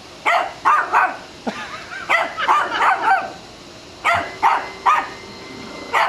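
Chihuahua barking: about a dozen short, high-pitched barks in quick clusters with brief pauses between them.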